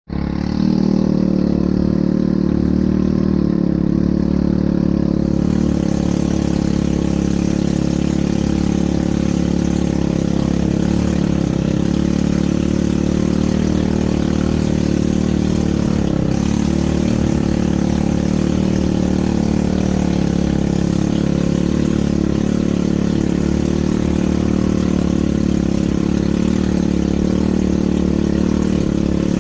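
ATV engine running at a steady pace, with a steady hiss that grows a few seconds in.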